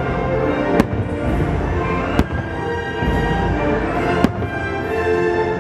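Fireworks going off: three sharp bangs, the second about a second and a half after the first and the third about two seconds later, over loud music that plays throughout.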